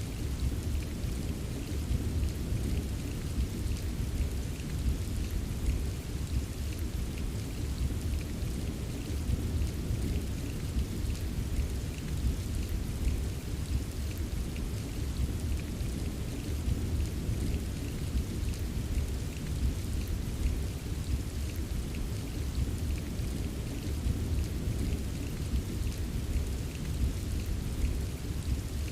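Steady heavy rain ambience with a constant deep rumble underneath, like distant thunder, and no distinct claps or breaks.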